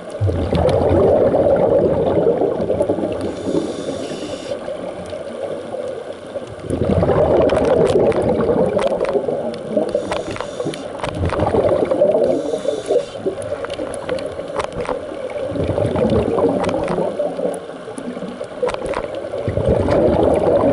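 Scuba regulator underwater with a diver breathing through it: five bubbling surges of exhaled air, one every four seconds or so. A soft hiss of inhaled air comes between two of them.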